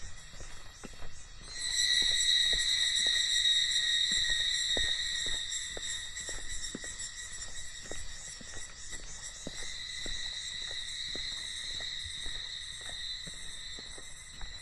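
Cicadas buzzing in a steady, high, even drone that swells in loudness about one and a half seconds in, with footsteps on the trail tapping about twice a second underneath.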